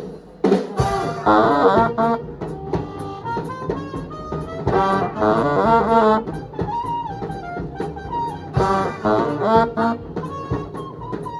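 Live swing jazz band with its horn section of saxophones and brass playing riffing ensemble phrases. The horns come in just after a short break at the start.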